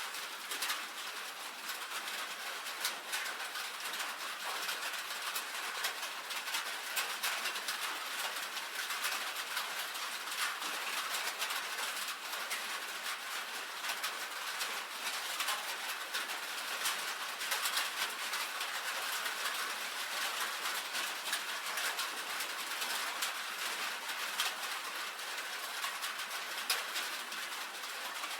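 Steady rain on a tin roof: an even hiss with a dense, irregular scatter of sharp drop ticks on the metal.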